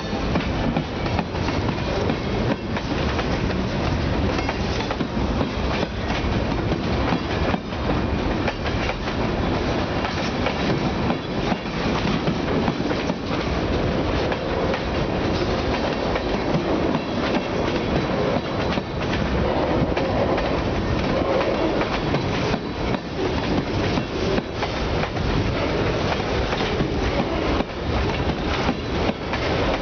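Freight train cars rolling past, their wheels clicking over rail joints in an uneven run of clacks over a steady rumble of wheels on rail.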